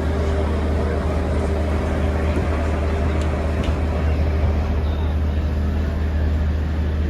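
Steady drone of a river ferry boat's diesel engine running under way, a deep, even hum with a few faint clicks on top.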